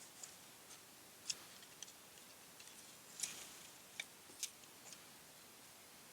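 A handful of faint, sharp clicks and taps from fingers and a tool working at the plastic interior light fitting of a 2019 Dodge Charger while trying to pull the bulb out. The clearest come about a second in and between three and four and a half seconds in.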